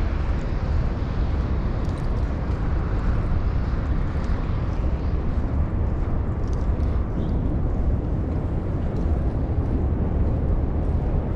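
Steady outdoor street noise with a heavy low rumble, heard through a helmet-mounted action camera in a snowstorm, with a few faint scattered ticks.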